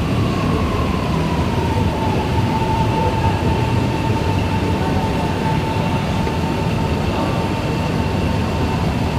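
Singapore MRT electric train running, a steady rumble with a motor whine that drops in pitch over the first couple of seconds, holds steady, then fades near the end.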